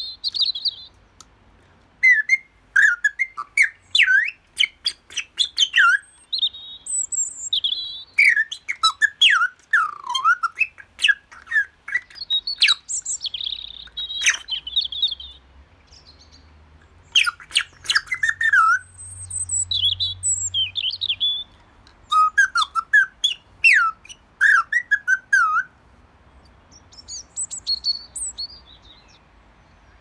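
Songbirds singing in short bursts of chirps, quick clicking trills and gliding whistles, with pauses of a second or two between phrases.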